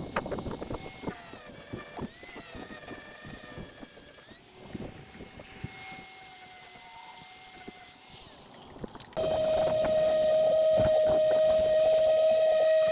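Small angle grinder grinding the outer flange off an old seacock fitting on a boat hull. Its pitch wavers under load, with many scraping clicks. About nine seconds in it switches suddenly to a louder, steady whine.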